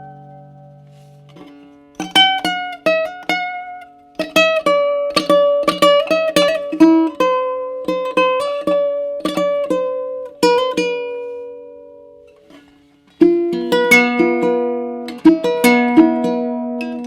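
Baritone ukulele with an ancient Sitka spruce top and pernambuco back and sides, played without effects: an improvised passage of plucked single notes and short runs over ringing lower notes. The notes die away for about two seconds near the end, then a louder cluster of chord notes comes in.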